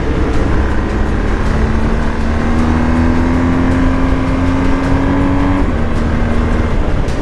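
BMW R 1250 GS Adventure's boxer-twin engine running under way, its note rising slowly and then dropping suddenly about five and a half seconds in, over a steady low rumble.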